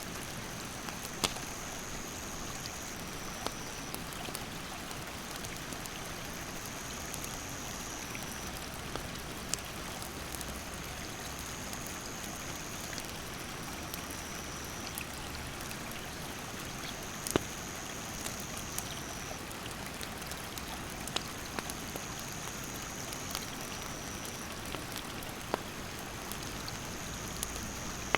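Steady rush of a mountain stream with a wood campfire crackling over it, sharp pops every second or two, the loudest about a second in and again about halfway. A high, steady insect trill repeats in phrases of a few seconds.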